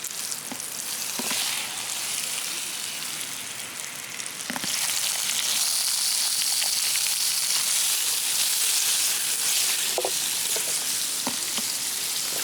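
Food sizzling in a hot pan, growing louder about five seconds in, with a few light clicks and pops.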